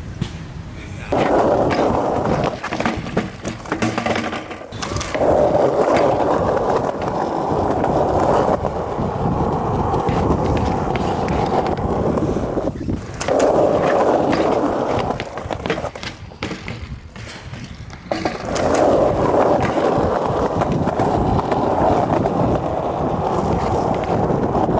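Wheels rolling over rough pavement, a loud, steady rumble that goes on in several long stretches with short breaks between them.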